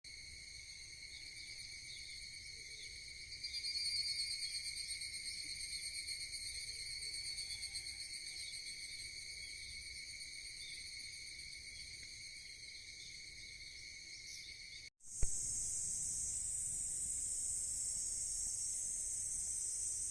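Steady high-pitched chorus of summer insects, louder and pulsing for a few seconds near the start. About 15 seconds in it cuts off abruptly and a different, higher and denser insect chorus takes over.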